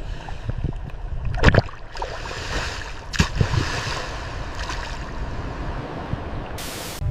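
Ocean water rushing and sloshing over a low rumble, with two sharper splashy bursts about one and a half and three seconds in.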